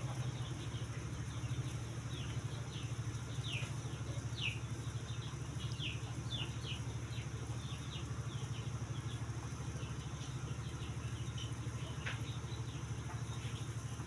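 A steady low mechanical hum, like a small engine running, with many short high downward chirps from birds over it, thinning out in the second half.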